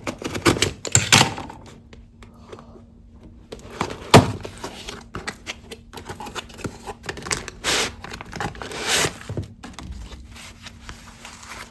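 Small products and their packaging being handled and set down: irregular clicks and knocks, one sharp knock about four seconds in, and rustling of packaging later on.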